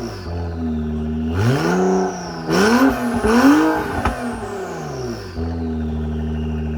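2019 Acura NSX twin-turbo V6 with a Quicksilver exhaust and race downpipes, blipped several times in quick succession and then settling back to a steady idle. A high whistle falls away after the revs, from the turbos spooling down.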